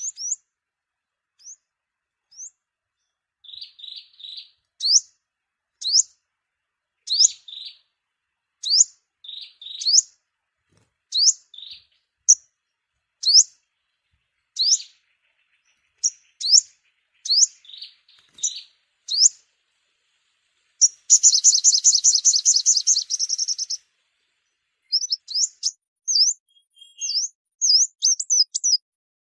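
Sunbird calls of the kind used to call a flock together: sharp upswept chirps about once a second, several led by a quick run of three or four lower notes. Later comes a rapid trill lasting about three seconds, then a fast twittering series near the end.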